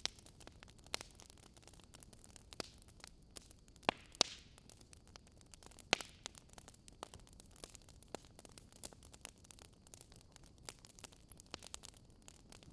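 Wood fire crackling: a low steady hiss with irregular sharp pops and snaps, the loudest three about four and six seconds in.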